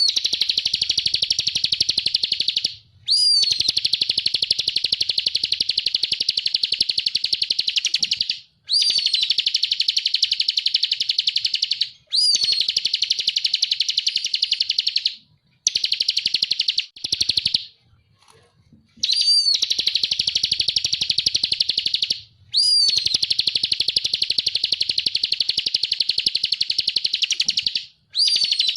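Ciblek (bar-winged prinia) singing in long, rapid, buzzing trills ('ngebren'). Each phrase opens with a short sharp up-and-down note and runs on for a few seconds. Phrase follows phrase with only brief pauses.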